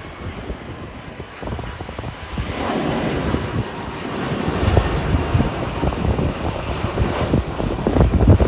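Airliner's engines growing steadily louder as the aircraft comes closer, a rushing roar with a faint whine, and wind buffeting the microphone.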